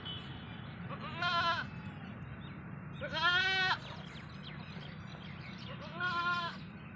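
Goats bleating, three separate calls a couple of seconds apart, the middle one the loudest.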